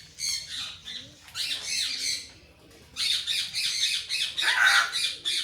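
A bird squawking harshly in three bouts of rough, high calls, the last and loudest bout near the end.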